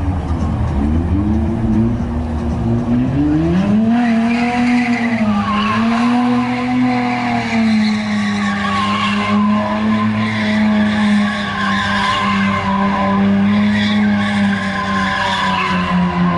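Car engine held at high revs while the car spins its tires, with a continuous tire squeal; the engine pitch climbs about three seconds in and then holds nearly steady.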